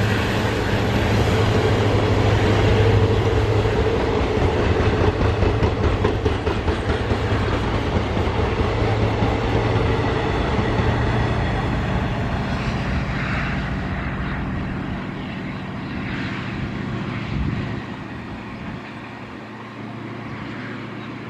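Passenger train coaches rolling past on the rails, wheels clattering steadily, the sound slowly fading as the train draws away. A steady low drone under the rolling noise dies away about two-thirds of the way through.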